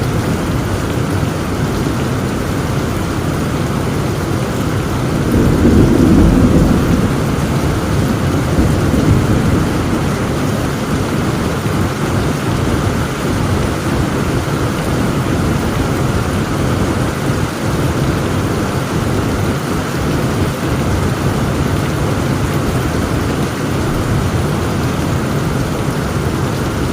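Heavy rain falling steadily, with a low roll of thunder swelling about five seconds in and rumbling off again by about ten seconds.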